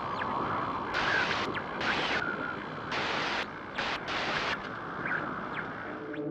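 Outdoor rushing-water noise that jumps up and down in level in abrupt steps every second or so, with a few short high rising chirps on top.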